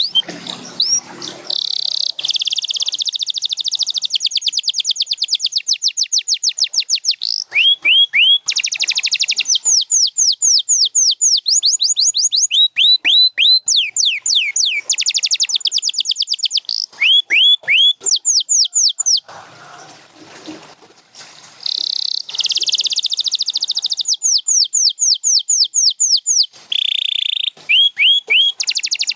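Domestic canary singing: long runs of rapidly repeated high notes, alternating with rolls of falling whistled notes, with a short pause about two-thirds of the way through.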